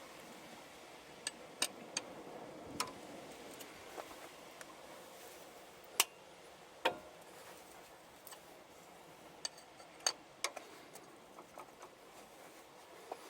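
Irregular light clicks and clinks of tools and metal parts being handled during a truck tire change, about a dozen in all, the loudest two about six and seven seconds in, one with a short ring.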